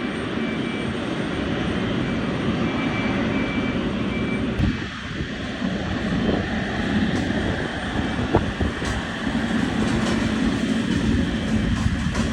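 Jet airliner engines heard close by: a loud, steady rushing noise that holds at about the same level throughout.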